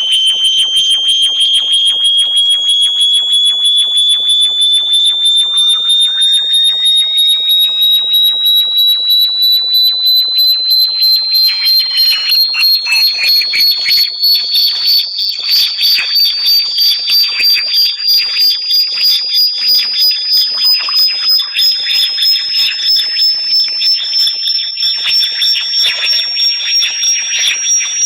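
Electronic bat-repellent tone: a shrill, rapidly pulsing whistle that slowly rises in pitch, with fainter sweeping tones gliding across it.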